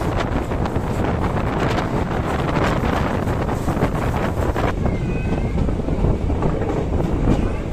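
Ananthapuri Express passenger train running along the track, heard from an open coach door with wind buffeting the microphone, and the wheels clicking over the rails. A faint high squeal comes in about five seconds in, as the train runs alongside the station platform.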